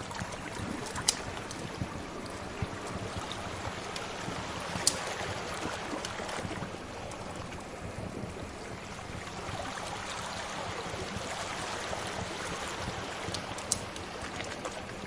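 Sea waves washing steadily, with a wood fire crackling over them and three sharp pops: about a second in, about five seconds in, and near the end.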